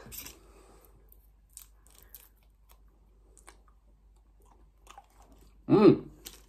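Faint, scattered wet clicks of a person chewing a piece of fruit-flavoured chewing gum, with a short voiced hum just before the end.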